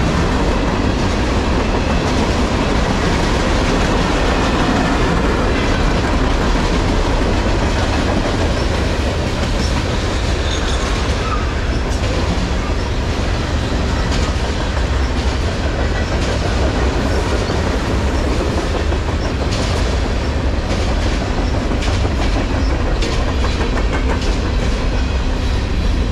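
Freight cars of a long manifest train rolling past: covered hoppers, tank cars and gondolas. Their steel wheels keep up a steady rumble and rattle on the rails, with scattered clicks over the rail joints, more of them later on.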